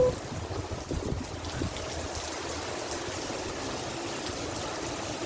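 Heavy rain falling steadily, a continuous hiss of water with a few sharper spatters in the first couple of seconds.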